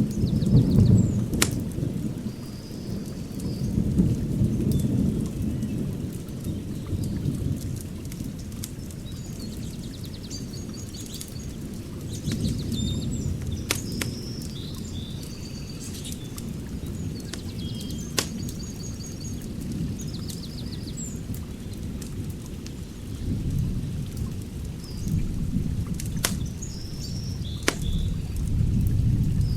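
Open wood fire crackling: a low rumble that swells and fades, with scattered sharp pops throughout.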